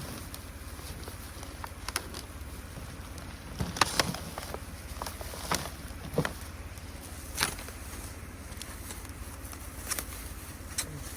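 Wood campfire crackling, with irregular sharp pops and snaps scattered through, a few louder ones close together about four seconds in.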